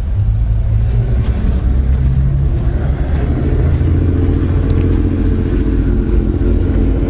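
A motor vehicle engine running steadily with a low hum. A steadier pitched engine drone comes in about three seconds in and holds.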